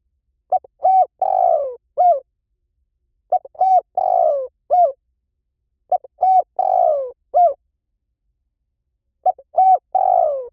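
Spotted dove singing its cooing phrase four times, each phrase a few short coos with one longer falling croo, repeated about every three seconds.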